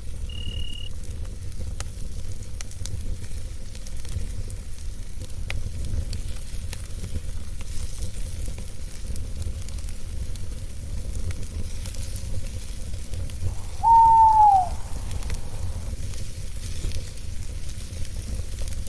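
Campfire burning with a steady low roar and scattered light crackles, a cricket chirping once near the start. About three quarters of the way through an owl gives one loud hoot that rises slightly and falls away at its end.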